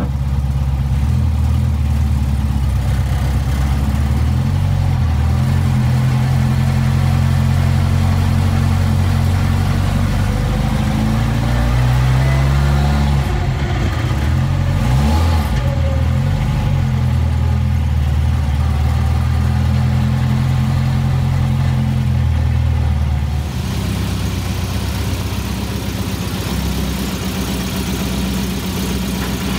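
Shorrock-supercharged Austin-Healey Sprite's four-cylinder engine running on the road, heard from inside the car, with the engine note rising and falling around the middle as it is driven. About three-quarters of the way in the sound drops a little and settles into a steadier note.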